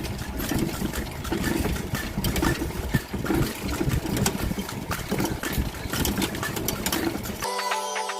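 Ride in a horse-drawn tanga cart: hooves clopping and the cart rattling over the road, with a low rumble and many sharp clicks. Music comes in suddenly near the end.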